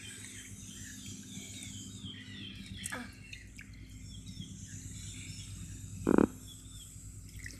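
Birds chirping repeatedly over a faint low hum; about six seconds in, a single short, loud thump.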